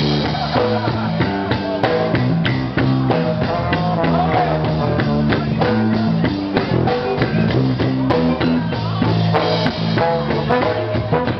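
Live rock band playing with a steady drum beat and guitar.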